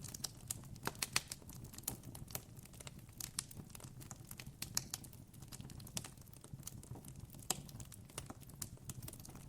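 Campfire crackling: wood burning with irregular sharp pops and snaps, several a second, over a faint steady low background.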